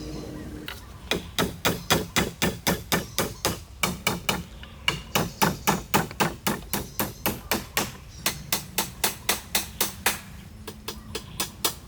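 A hand tool working wood in rapid, regular strokes, about four a second, pausing briefly twice.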